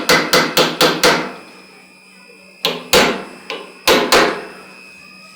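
Hammer striking a round punch on hot steel to fuller in the eyebrow lines of a forged skull. A quick run of about six blows comes in the first second, then after a pause about five more spaced blows. A faint steady hum runs underneath.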